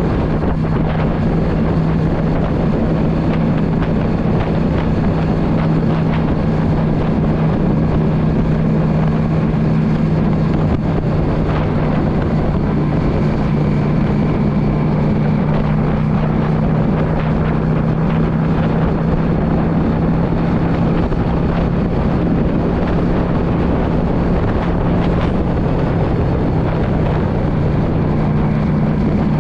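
Yamaha V Star 650 cruiser's air-cooled V-twin engine running at a steady cruising speed, its pitch holding level, with wind buffeting the microphone.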